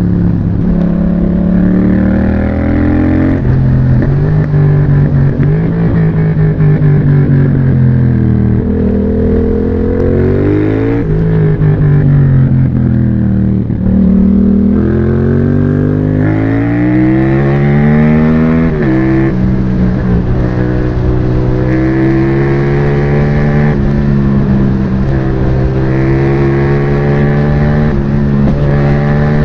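Yamaha MT-07's 689 cc CP2 parallel-twin engine through an aftermarket exhaust, accelerating hard with the pitch climbing and dropping back at each of several upshifts, then running at fairly steady revs for the last ten seconds or so.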